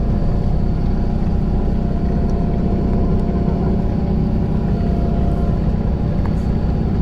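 Tour bus engine running, heard from inside the cabin as a steady low drone with a faint hum over it.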